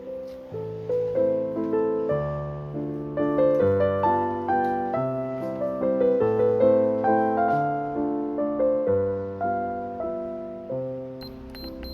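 Slow, gentle solo piano music, notes struck one after another and left to ring.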